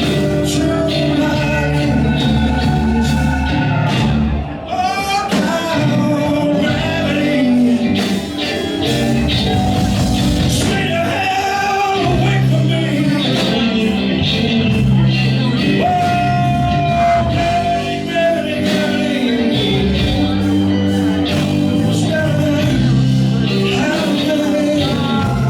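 Blues-rock band playing live, with a singer's voice over the instruments.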